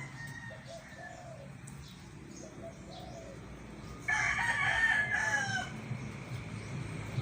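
A rooster crowing once, a single long call of about a second and a half starting about four seconds in, over fainter short bird calls and a steady low hum.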